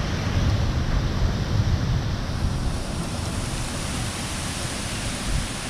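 Heavy thunderstorm rain pouring steadily, with wind gusting and buffeting the microphone in a low rumble.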